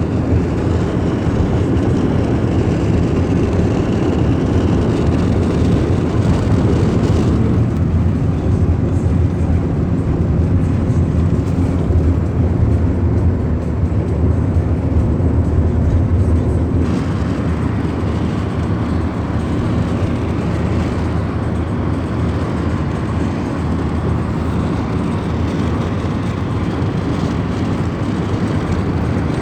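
Steady low rumble of a moving car's road and engine noise, shifting abruptly about seven seconds in and again about seventeen seconds in.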